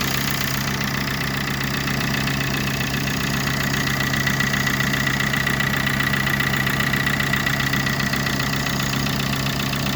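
Opel Corsa D's Z13DTJ 1.3-litre four-cylinder turbodiesel idling steadily, with a fast even ticking and a steady high whine over the engine note.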